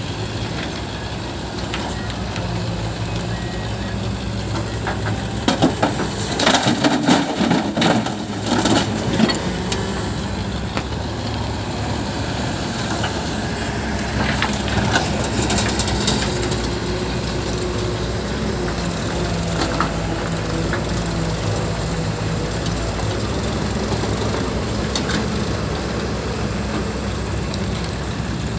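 JCB backhoe loader's diesel engine running steadily under work, with bursts of clattering and crunching about six to nine seconds in and again around fifteen seconds in.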